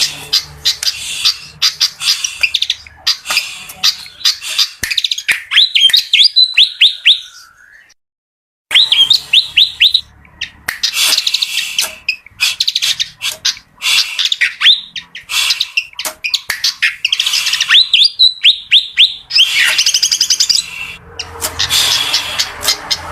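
Fantail (kipasan) singing: fast chattering chirps broken by runs of clear whistled notes, with a brief silent break about eight seconds in.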